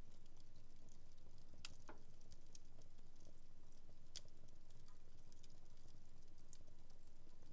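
Wood fire in a home fireplace crackling faintly: scattered small pops and snaps, the sharpest about a second and a half in and again about four seconds in, over a low steady background.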